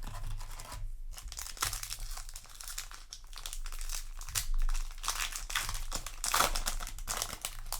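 Foil booster pack wrapper crinkling irregularly as it is handled and torn open, a little louder about halfway through and again near the end.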